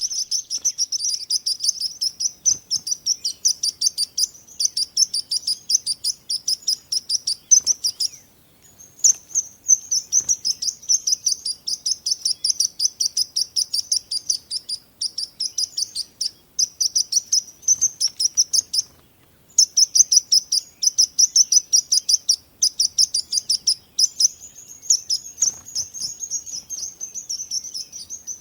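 Small birds chirping in a rapid, continuous stream of short high-pitched notes, several a second, with brief pauses about 8 and 19 seconds in.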